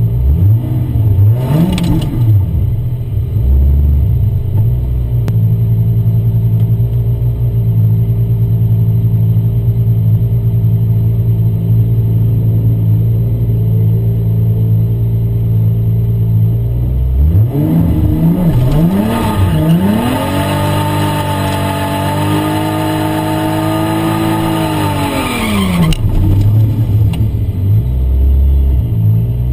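Toyota Supra's turbocharged straight-six heard from inside the cabin: idling steadily after a quick rev near the start, then blipped a few times and held at a steady high rpm with a rushing hiss for about five seconds before dropping back to idle.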